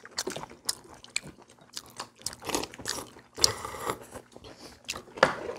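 People chewing and crunching food at a table, with scattered sharp clicks and a louder click near the end.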